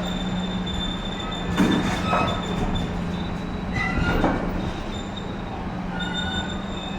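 A train running on the station tracks: a steady rumble and hum, with short high squeals from the wheels on the rails about two and four seconds in.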